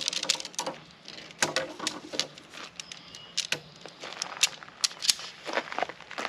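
Camping gear being handled: irregular sharp clicks and light rattles, a few strokes at a time.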